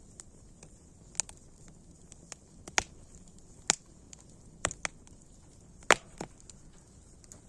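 Campfire crackling: sharp, irregular pops and snaps over a faint steady hiss, the loudest snap about six seconds in.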